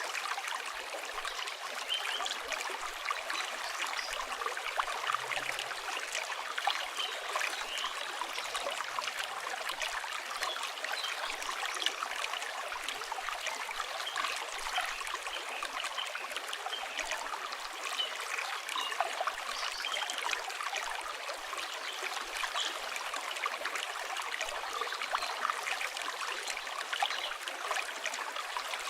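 River water flowing and trickling steadily, with a campfire crackling and popping in sharp, irregular snaps throughout.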